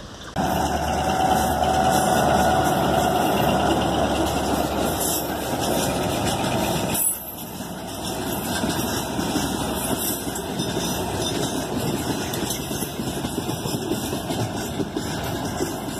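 G26 diesel locomotive and its train of tank cars and boxcars passing close by, engine running and wheels rolling on the metre-gauge track. The level drops suddenly about seven seconds in, then the cars roll past steadily.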